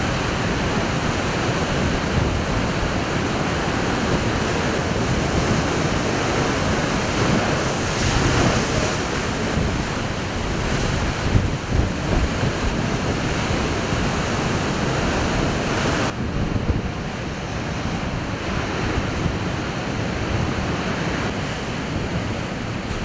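Heavy storm surf breaking and surging against the shore, a steady rushing wash with swells as waves hit, and wind buffeting the microphone. The hiss turns duller about two-thirds of the way through.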